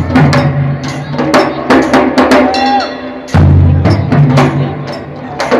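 Percussion ensemble playing a fast, dense rhythm of many sharp drum strikes and clicks, with a heavy low drum sound coming in after about three seconds.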